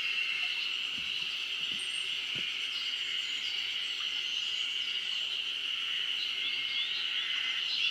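Chorus of spring cicadas (harusemi) making a steady, unbroken drone, with faint short bird calls over it.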